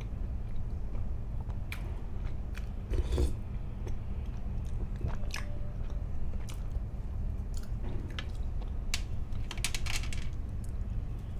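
Close-miked eating: bites and chewing with crisp crackling crunches, loudest about three seconds in and again near the end, over a low steady hum.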